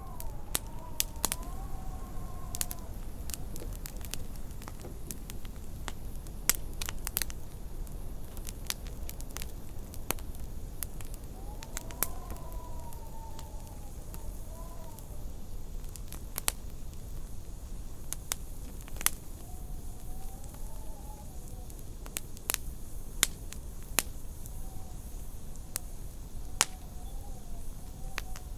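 Wood fire crackling in a fireplace, with frequent sharp pops, over a steady low rumble of wind. Now and then the wind rises into a faint wavering howl.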